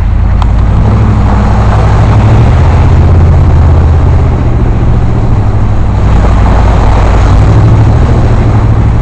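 Off-road vehicle's engine running loud and steady under load while driving through mud, its pitch shifting a little a couple of times.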